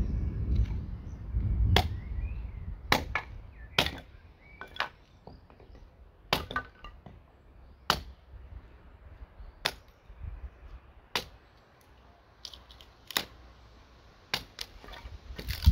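A series of sharp cracks and clicks, about a dozen, at irregular intervals, with a low rumble in the first two seconds.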